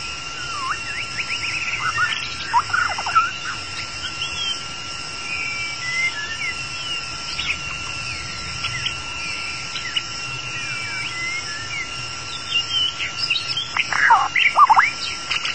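White-rumped shama singing: scattered whistles and quick chirps, with louder bursts of fast downward-sweeping notes about two and a half seconds in and again near the end, over a steady high whine.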